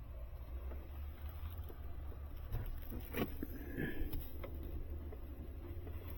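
A few faint clicks and taps of hands and tools working on thermostat wiring, over a steady low hum.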